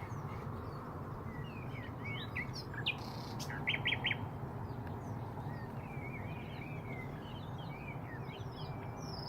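Common nightingale singing: a varied run of whistles and slurred notes, with a quick burst of repeated notes about four seconds in, over a steady low rumble.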